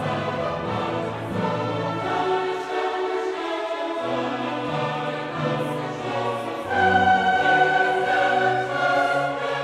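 Choral music with orchestra: a choir sings long sustained notes over held chords, growing louder about two-thirds of the way through.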